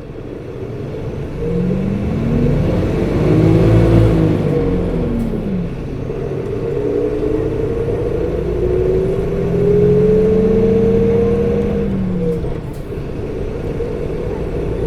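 Hino PKG-RA274KAN city bus's diesel engine heard from on board, pulling hard with its pitch rising and falling twice as it works up through the gears. The whine of its coupling fan runs alongside: the fan is engaged even in midwinter and sounds high for the engine speed.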